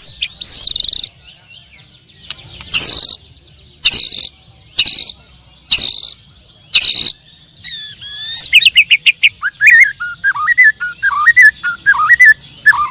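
Caged songbirds singing loudly. A series of clear, high notes comes about once a second, then from about eight seconds in a fast, varied warbling run of rising and falling notes.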